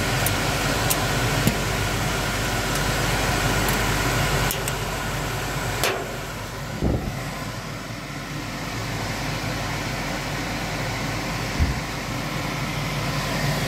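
Steady rushing of the blower fan and diesel burner of a homemade hot-air stove, with a few sharp metallic clicks as the stove's hatch is shut about five seconds in. Soon after, the sound falls off as the flame goes out.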